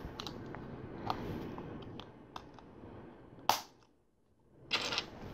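Plastic LEGO pieces clicking and tapping as they are picked up and handled, with one sharper click about three and a half seconds in and a brief clatter of pieces near the end.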